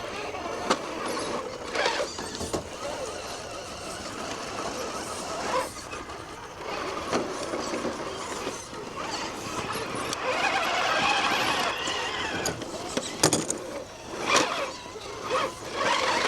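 Small electric RC crawler trucks working over terrain: motor and gear whine with scrabbling, and a few sharp clicks.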